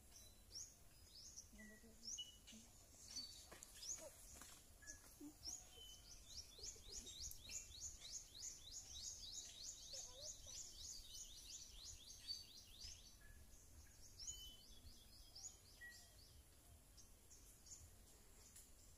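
Faint bird song: a series of high, quick downward-slurred notes that speeds up to about five a second around the middle, then slows again, with occasional short single whistles lower down.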